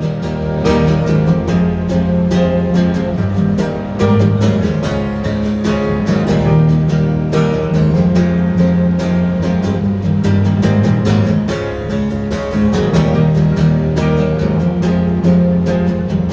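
Live acoustic guitar music with no singing: guitars strummed in a steady, fast rhythm over sustained low bass notes.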